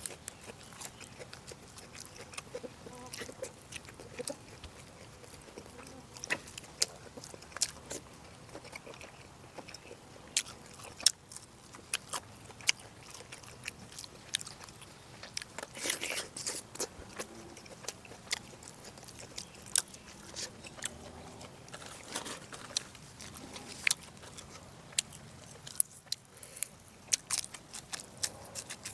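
A person chewing and biting food close to the microphone, with many sharp mouth clicks and smacks at irregular intervals.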